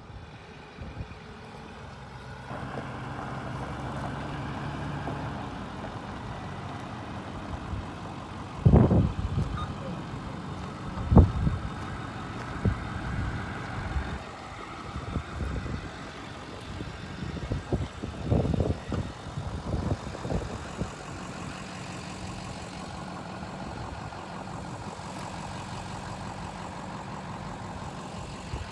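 2005 Ford F450 work truck's engine running steadily, with several loud clunks and knocks, the strongest about nine and eleven seconds in and another cluster around eighteen to twenty seconds.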